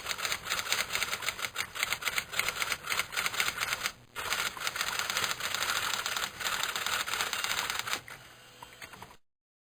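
Typewriter being typed on: a fast, dense run of key strikes with a short pause about four seconds in. The typing stops about eight seconds in, leaving a faint hiss before a sudden cut to silence.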